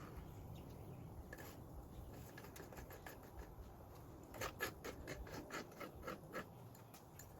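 Faint scraping and light clicking, then a quick run of about a dozen sharp clicks and taps about halfway through.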